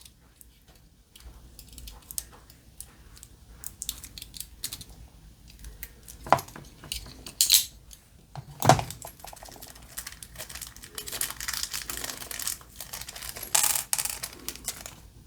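Small diecast kit parts handled on a work surface: scattered clicks and clinks as pieces are picked up and set down, with a few louder knocks in the middle and rustling of taped packaging near the end.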